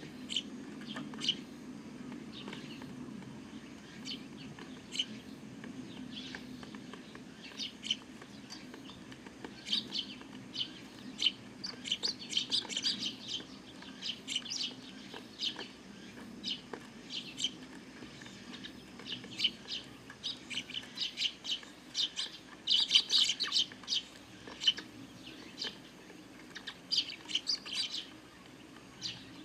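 A flock of Eurasian tree sparrows chirping, many short chirps overlapping, busiest around the middle and again about two-thirds of the way through.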